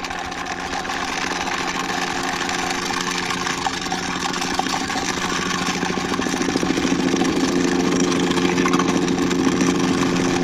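Steady engine-like hum with an unchanging low pitch, growing a little louder in the second half.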